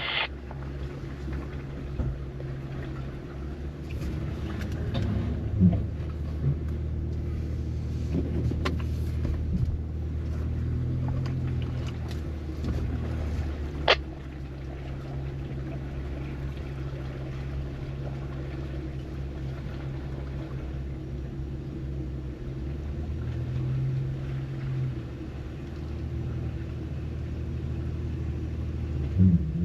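Off-road 4x4's engine running steadily at low revs, the engine note rising briefly a couple of times. There is a single sharp knock about fourteen seconds in.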